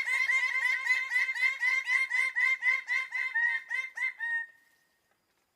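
A bird calling in a rapid, even series of short repeated notes, about four to five a second, that stops abruptly about four and a half seconds in.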